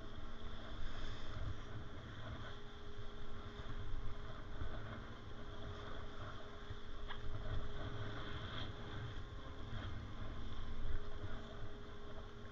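Boat engine running steadily with a constant hum, while wind buffets the microphone in uneven gusts.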